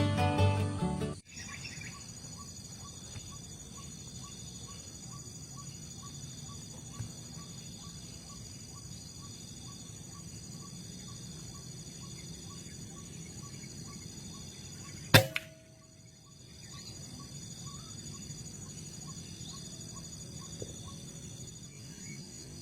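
A single sharp crack of a hunting shot about two-thirds of the way through, with a short ringing tail. Around it are steady high insect calls and a faint ticking about twice a second. Plucked-string music cuts off about a second in.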